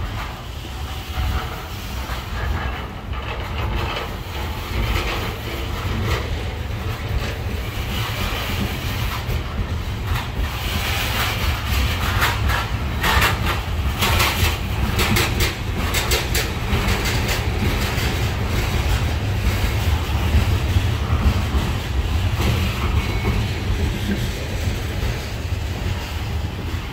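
Freight train of trash container cars rolling past, the wheels on the rails making a steady low rumble. A run of sharp clicks and knocks comes about ten to sixteen seconds in.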